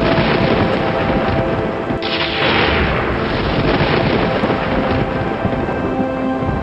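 Thunder rumbling over a steady hiss, with a sudden thunderclap about two seconds in whose sharp crack fades into a rolling rumble.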